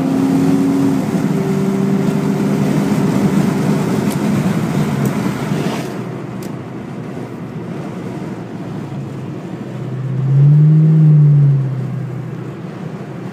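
2002 Mustang GT's 4.6-litre V8 pulling hard under acceleration up a freeway on-ramp, heard from inside the cabin, for about six seconds before easing to a quieter cruise. Near the end a louder swell of engine sound rises and falls in pitch over about two seconds.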